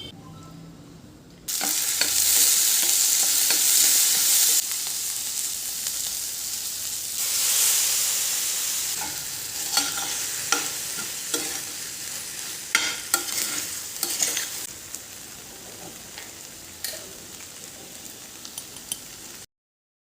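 Food sizzling in a hot pan, starting suddenly about a second and a half in. A utensil clicks and scrapes against the pan as it is stirred, while the sizzle slowly dies down before the sound cuts off near the end.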